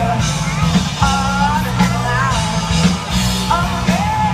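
A rock band playing, with a singer's voice over held low bass notes.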